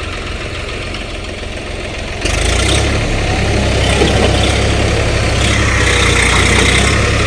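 Swaraj tractor's diesel engine running steadily, becoming abruptly louder about two seconds in.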